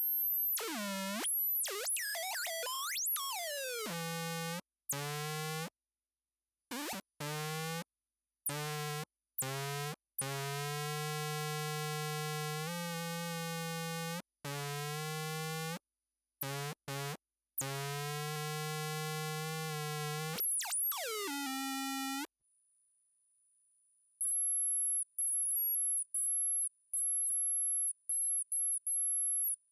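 Electromagnetic interference picked up underwater, heard as electronic tones. First come gliding pitches, then buzzing tones rich in overtones that switch on and off abruptly between silent gaps. After a brief near-silence, a high thin whine stutters on and off.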